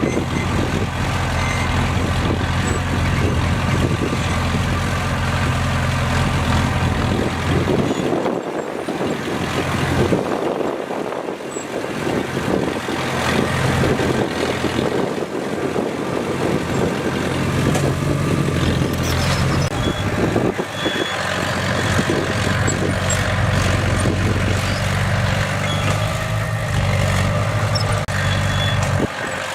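Komatsu bulldozer's diesel engine running as the dozer works, its low engine note steady for the first several seconds, falling away around eight seconds in, then coming back strong past the midpoint.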